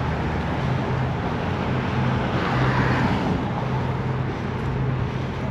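Steady road traffic noise mixed with wind rush while riding, with a low steady hum throughout; a vehicle passes, swelling louder about two to three seconds in.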